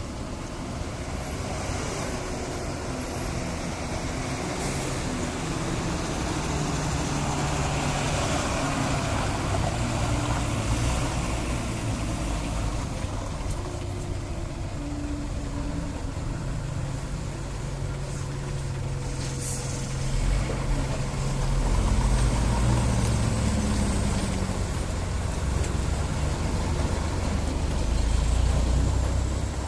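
Heavy lorry engine running as the truck works down steep hairpin bends, its pitch rising and falling, getting louder in the last third. A short sharp hiss comes about twenty seconds in.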